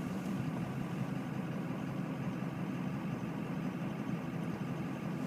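Car engine and road noise heard from inside the car's cabin: a steady, even drone with no sudden events.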